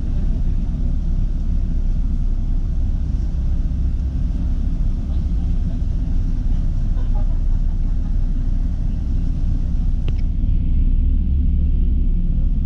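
Steady low rumble of an Airbus A321 airliner heard from inside the passenger cabin. A single sharp click about ten seconds in, after which the higher hiss drops away.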